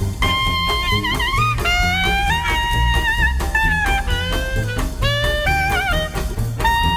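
Swing jazz background music in an instrumental passage: horns play held notes that bend at their ends, over a bass and drum kit keeping a steady beat.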